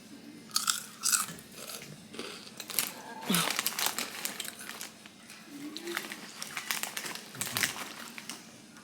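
Someone chewing hot Cheetos, with irregular crisp crunches.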